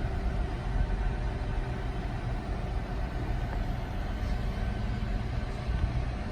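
GMC C7500 bucket truck's engine running steadily, powering the hydraulics while the aerial boom is operated.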